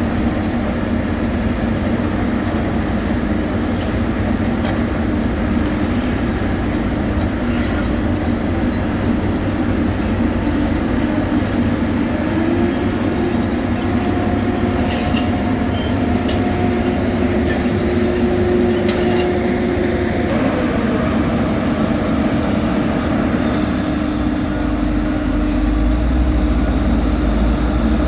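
Heavy road-paving machinery with diesel engines running steadily, with a few short clicks and knocks. The engine note shifts about two-thirds of the way through, and a deeper rumble builds near the end.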